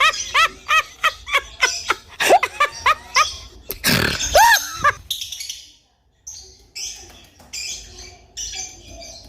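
Bird calls: a fast run of squeaky chirps, each rising then falling in pitch, about three a second. A louder chirp comes about four seconds in, then fainter, higher, rougher chirps.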